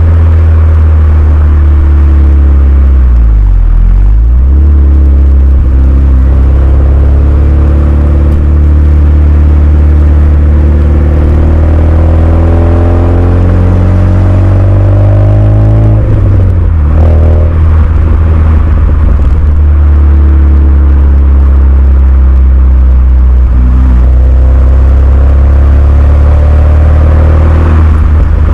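Renault Mégane II RS 2.0-litre turbo four-cylinder running through a Milltek cat-back exhaust while driving. The revs dip and pick up again a few seconds in, climb slowly, then drop sharply at a gear change about halfway through before settling into a steady drone.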